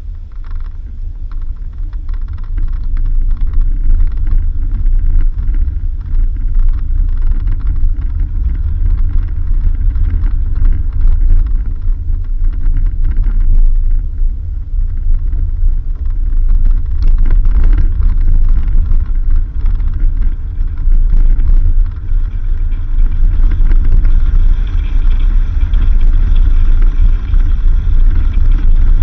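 Vehicle driving along a dirt road: a loud, steady low rumble that builds over the first few seconds.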